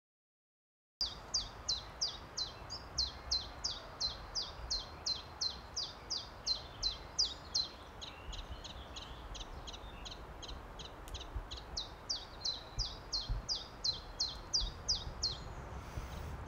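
A bird calling one short, downward-sweeping note over and over, about three a second, starting about a second in and stopping shortly before the end, over a faint low rumble.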